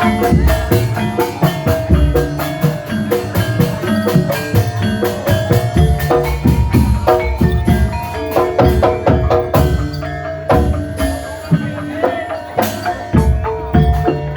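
Javanese gamelan music for an ebeg dance: bronze metallophones and gongs struck in a running pattern of ringing notes over low drum beats.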